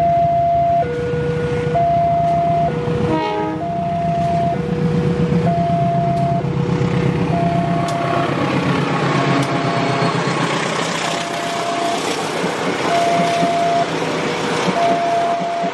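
Railway level-crossing warning alarm alternating between two tones, each held about a second, over a low engine rumble. A short horn toot sounds about three seconds in, and from about eight seconds a slow train rolling past grows louder.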